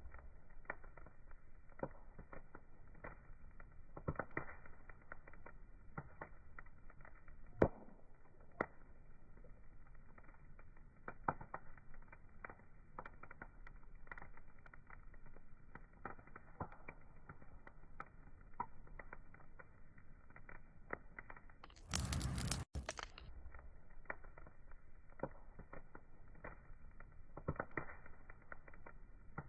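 Wood fire crackling, with irregular sharp pops and snaps over a soft steady hiss. About 22 s in there is a brief, louder burst of noise lasting under a second.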